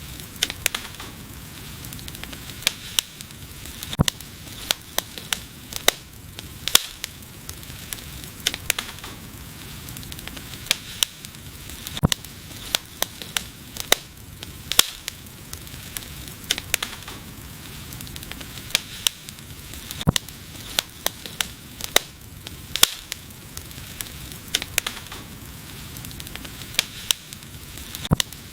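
Wood fire crackling: sharp, irregular pops, sometimes several in quick succession, over a steady hiss of burning.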